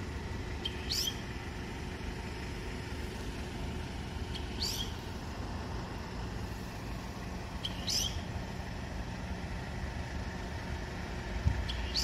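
A songbird giving a short, high call four times, about every three and a half seconds, over a steady low background rumble.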